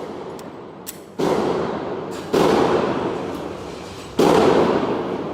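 Three gunshots at a shooting range, about a second and then two seconds apart, each followed by a long echoing decay.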